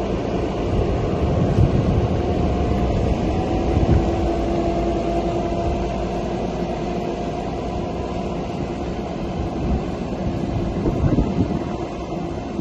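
LTMG LTS75 skid steer loader working, its engine running in a steady low drone with a faint whine through the middle and a few louder knocks and clunks.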